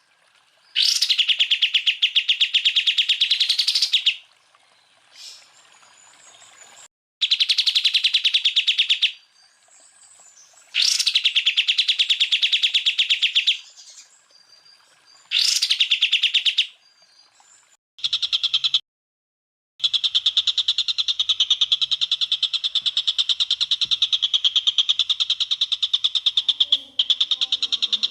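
Greater green leafbird (cucak ijo) singing fast, machine-gun-like trills of rapidly repeated notes. These come in loud bursts of one to four seconds with short gaps between them, then one long burst of about seven seconds in the second half.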